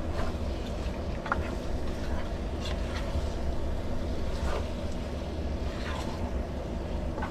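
A steady low rumble, with a few light clicks and scrapes of a utensil against a cooking pot every second or so.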